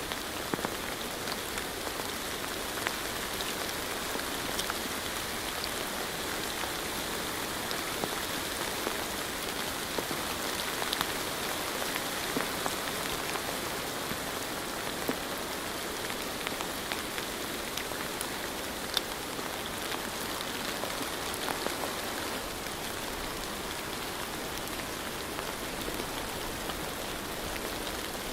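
Steady rain falling, with scattered individual drops ticking a little louder over the even hiss.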